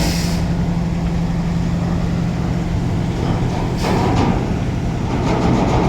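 Container truck's diesel engine idling steadily with a low hum, with a short hiss about four seconds in.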